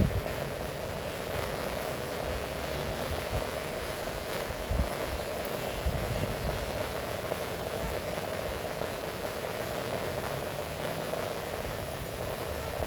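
Heavy rain falling, a steady hiss, with a few brief low thumps.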